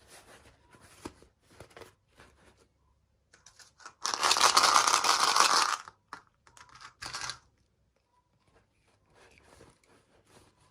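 Toy packaging being torn open by hand: one loud tear lasting about two seconds near the middle, with short rustles and crinkles of handling the wrapper before and after.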